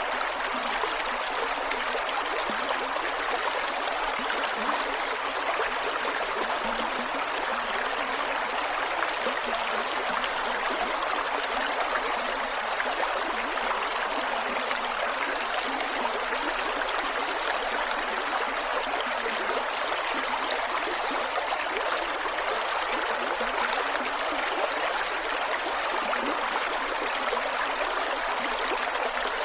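Creek water flowing over rocks, a steady rush with gurgling and trickling.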